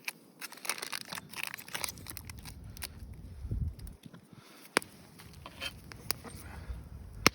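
Scattered clicks, rustles and short knocks of camp cooking gear being handled, with two sharper knocks, one about five seconds in and one near the end.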